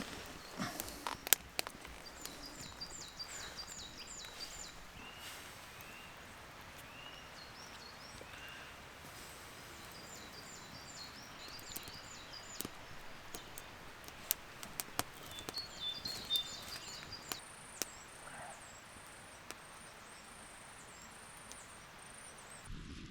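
Woodland birds singing: short, quickly repeated high chirping phrases that come back several times, some lower single chirps, and a long, high, thin note in the second half. Scattered light clicks and knocks sound through it, loudest about a second in.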